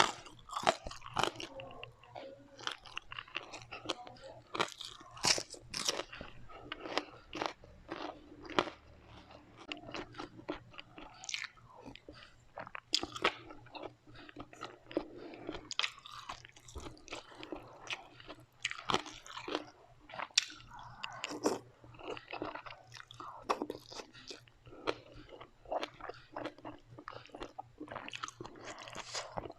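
A person chewing and crunching crispy fried food with many sharp, irregular crunches.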